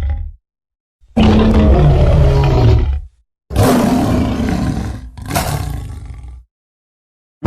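Sound-effect roars of an Acrocanthosaurus dinosaur: a roar of about two seconds, then two shorter roars close together, the last fading away, each cut off into silence.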